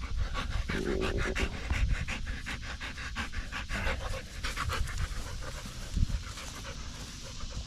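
A dog panting rapidly and rhythmically, about three breaths a second.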